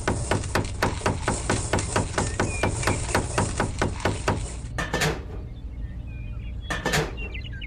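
Rapid, even knocking, about five sharp strikes a second, that stops after about four and a half seconds and is followed by a few separate knocks.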